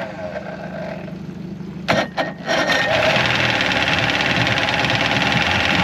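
Outboard motor firing up after a few sharp knocks about two seconds in, then running loud and steady, after struggling to start.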